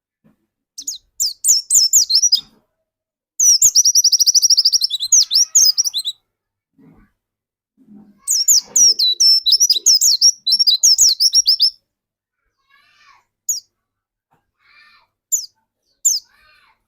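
Pleci dakun white-eye singing in loud bursts of rapid, high chirping twitter, including a fast trill about three and a half seconds in. The song thins to a few single chirps in the last few seconds.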